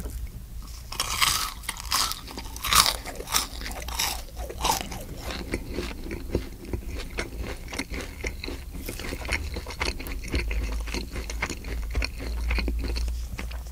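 Close-miked crunching and chewing of battered deep-fried mudfish (pond loach). The crisp bites are loudest in the first few seconds, then give way to quicker, smaller crunches as it is chewed down.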